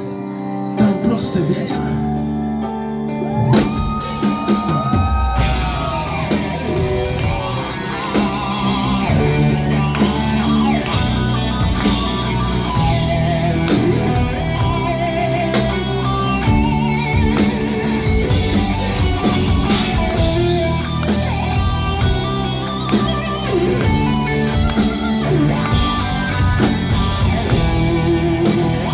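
Rock band playing an instrumental passage: electric guitar over bass and drum kit, with bent, gliding guitar notes about four seconds in and a steady drumbeat after.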